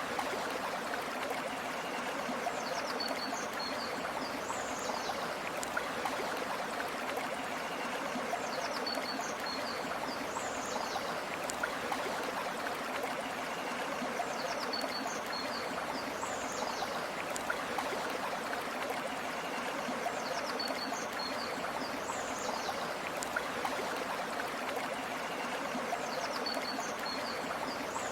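River water flowing steadily. Pairs of short, high chirping calls come back at even spacing, about every six seconds.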